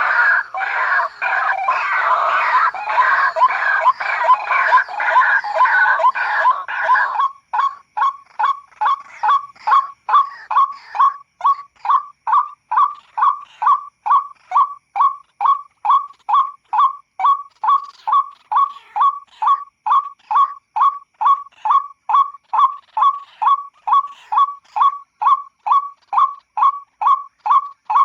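White-breasted waterhen (ruak-ruak) calls played as a lure call: a dense, harsh, overlapping chatter for about the first seven seconds, then a steady run of short clipped notes, about two a second.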